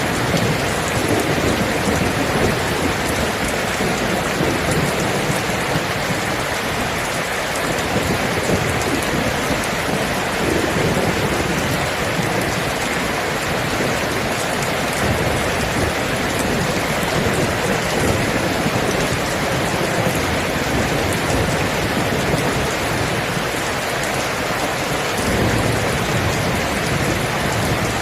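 Steady heavy rain falling, with low rolls of thunder swelling and fading beneath it.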